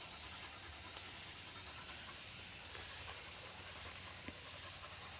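Faint, steady outdoor background hiss with no distinct event, and a soft click about four seconds in.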